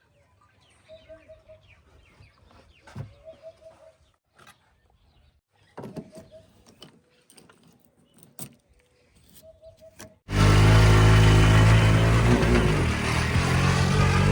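A vehicle engine droning loudly and steadily close by, starting suddenly about ten seconds in and cutting off abruptly; before it, only faint clicks and short chirping pips.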